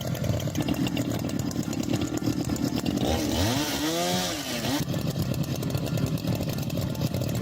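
Chainsaw engine running steadily. About three seconds in it revs up and back down once over a second and a half, with a burst of hiss.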